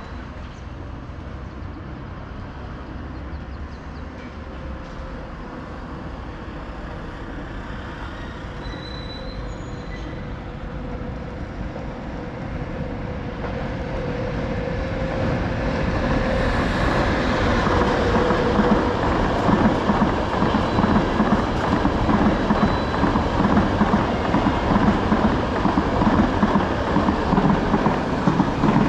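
A train running on the tracks. Its noise grows steadily louder over the first two-thirds as it approaches, then stays loud and rough as it passes.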